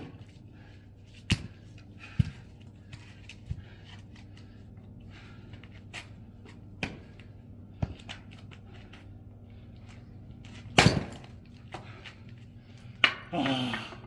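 Axe striking and splitting firewood logs: a string of sharp wooden knocks at irregular intervals, the loudest about eleven seconds in.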